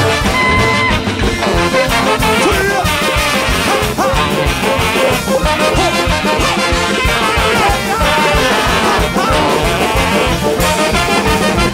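A large free-jazz big band with saxophones, trumpet and drums playing live: loud, dense, up-tempo ensemble music over a busy drum beat.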